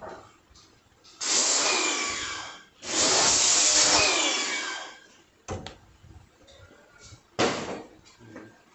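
A power tool running in two bursts, about a second and a half and then two seconds long, followed by a few sharp knocks.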